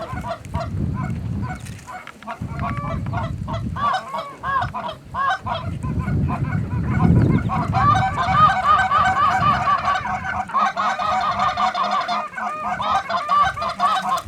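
Geese honking, many short overlapping calls that grow into a dense chorus about halfway through, over a low rumble in the first half.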